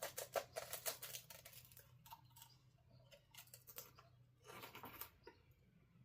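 Faint crunching from chewing a crisp wafer cone: clusters of quick, sharp crackles, densest in the first second and again twice later.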